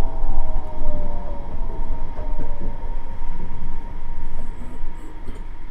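Nippori-Toneri Liner 330-series rubber-tyred guideway train running and slowing down. Its motor whine falls steadily in pitch and the running noise fades as it brakes for a station.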